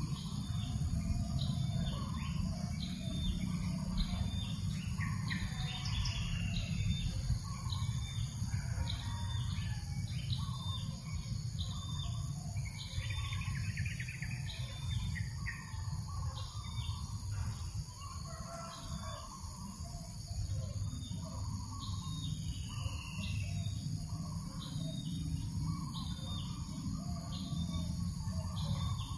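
Birds calling. One gives a short high note about once a second, over scattered lower chirps, with a steady low rumble of breeze underneath.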